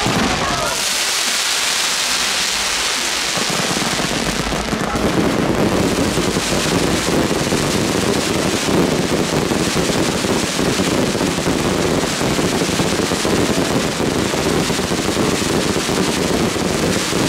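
Fireworks crackling in a dense, continuous rattle, thickening and growing louder about four seconds in.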